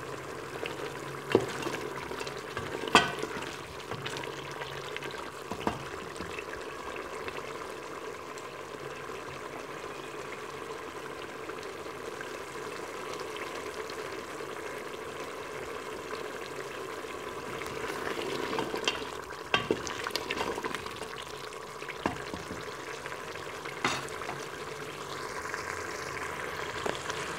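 Chicken and onion-tomato masala frying in oil in a pressure cooker pot, a steady sizzle, with a spoon knocking against the metal pot a few times, most of them about two-thirds of the way through. The masala is being fried down (bhunai) and is beginning to release its oil.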